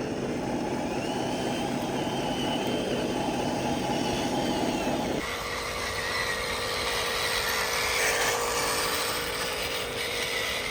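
Electric motors and plastic gearboxes of radio-controlled construction models running with a steady whine; about five seconds in the sound changes abruptly as one drive stops and a higher whine takes over.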